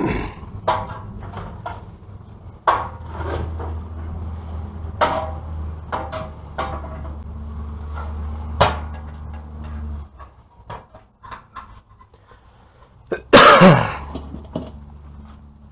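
Metal hand tools and parts clinking and knocking against each other during brake and hub work, with a low steady hum for several seconds in the middle. A short, loud scraping clatter comes near the end.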